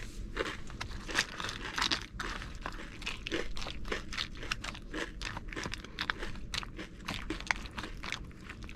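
Close-up chewing of a handful of crunchy corn nuggets (toasted corn kernels): irregular hard crunches, several a second.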